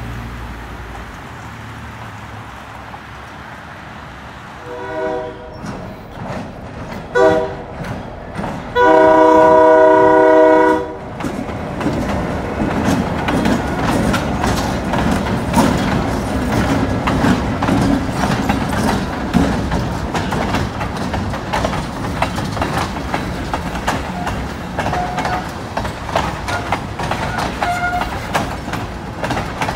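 Diesel freight locomotive's horn sounding three blasts as it approaches a level crossing: a medium one, a short one, then a long, loud one. The locomotive then passes with its engine rumbling, followed by propane tank cars clattering steadily over the rail joints.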